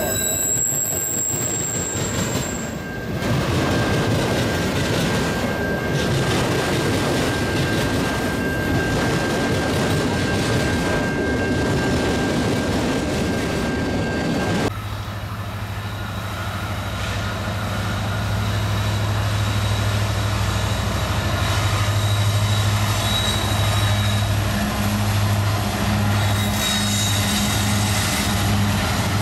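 Autorack freight cars rolling past close by with a dense rumbling clatter and a steady high-pitched tone over it. About halfway through it cuts to the low, steady hum of CN diesel-electric locomotives running as they pass, pulsing unevenly near the end.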